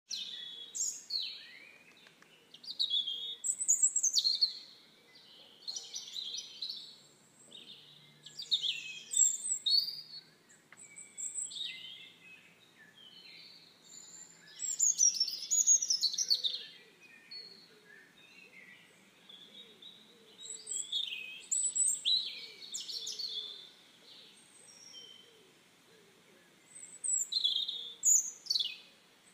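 Songbirds singing: short, varied high chirping phrases every few seconds, with brief pauses between them.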